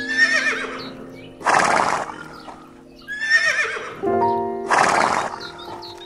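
Horse whinnying twice, each quavering high call followed by a short harsh burst of noise, over background music.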